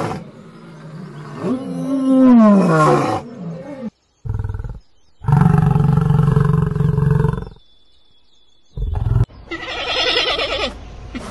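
A series of separate animal calls with short gaps between them. About a second in comes a call that falls in pitch. In the middle there is a long, steady, low call. Near the end a shorter, higher call follows.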